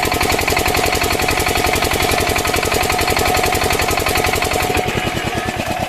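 8 HP single-cylinder diesel engine of a water pump set running fast with a rapid, even beat, then slowing and quietening about five seconds in.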